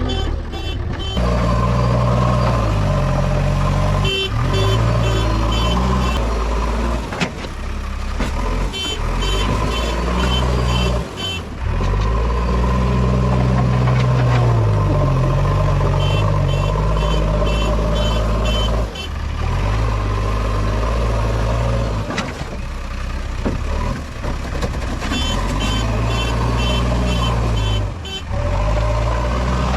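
JCB 3DX backhoe loader's diesel engine running and revving up and down under load as it digs and loads, with a rhythmic high beeping in spells.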